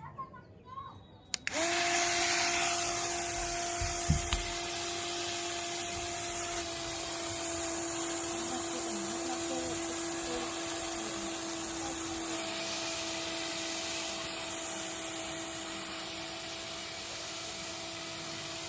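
Small DC motor of a homemade electric toy helicopter switched on about a second in, then running at a steady even whine with a rush of air from the spinning rotor. A short low thump a few seconds later.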